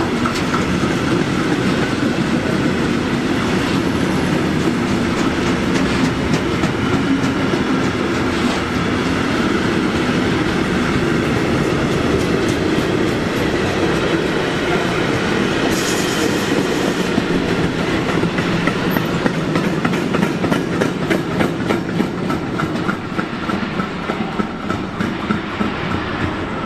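A train running past on the tracks, with a steady rumble and wheels clacking over rail joints; the clacking stands out more toward the end. A brief high hiss comes about sixteen seconds in.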